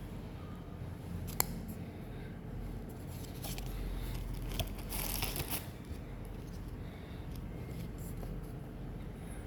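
Pokémon card booster packs and cards being handled at close range: a sharp click a little over a second in, then a short burst of crinkling and tearing of pack wrapper around the middle, over a low steady hum.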